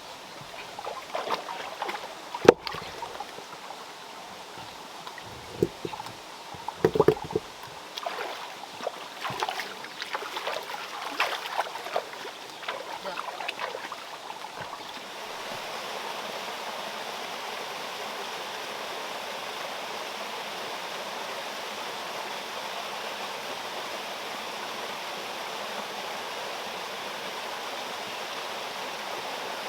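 Flowing water over scattered knocks and clatter, with one sharp knock early on. About halfway through the knocks stop, leaving a steady, even rush of running water.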